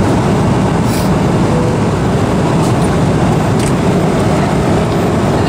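Steady, loud rumbling noise of a moving vehicle heard from inside, with a few faint clicks.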